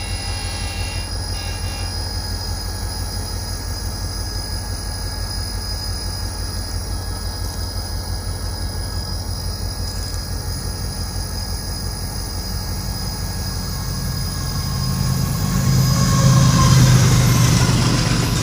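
A train running past on the rails: a steady low rumble that swells louder about three-quarters of the way through, loudest near the end, with hissing wheel-on-rail noise.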